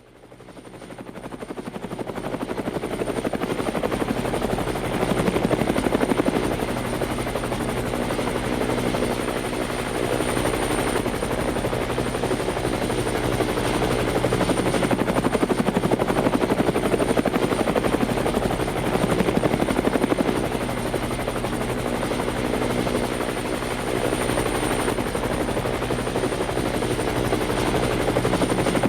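Helicopter in flight: steady rotor and engine noise with a thin, high, steady whine above it, fading in over the first couple of seconds.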